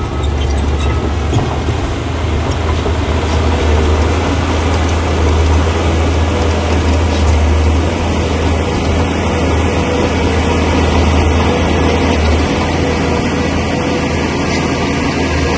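Shantui crawler bulldozer's diesel engine running steadily under load, with a continuous mechanical rattle and clatter over its low drone. The drone eases slightly about eight seconds in and again near twelve seconds.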